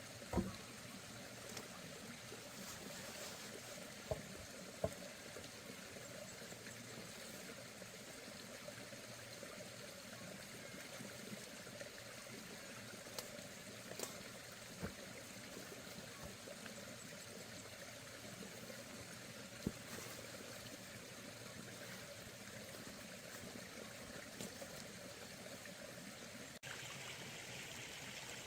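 Steady trickling of flowing water, broken by a few sharp knocks.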